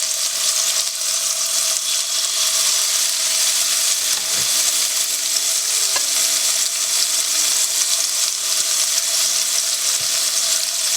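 Mangrove snapper fillets frying in hot oil in a pan on medium-high heat, with a steady, loud sizzle. A couple of faint light clicks come midway through.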